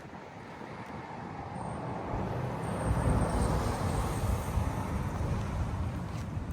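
Heavy truck diesel engine, the 1993 Scania P113E 360 6x6's straight-six, running and growing louder over the first three seconds, then holding steady.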